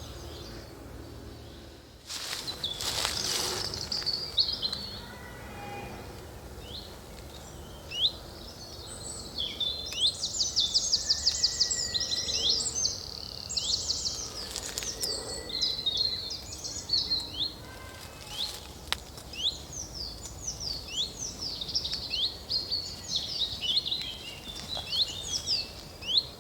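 Several woodland songbirds singing: a fast, dense run of notes about ten seconds in, then many short downward-sliding notes repeated through the rest. A brief rush of noise about two seconds in is the loudest thing early on.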